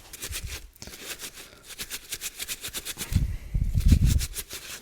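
A cloth wiping briskly back and forth over the metal plate of a side stand extension, about four or five quick rubbing strokes a second, cleaning the surface before adhesive pads go on. About three seconds in, a louder low rumble of the part being handled takes over for a second or so.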